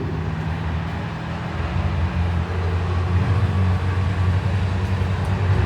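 Claimer stock cars' engines running as the field laps the oval, growing louder about a second and a half in, with a few rises and falls in pitch.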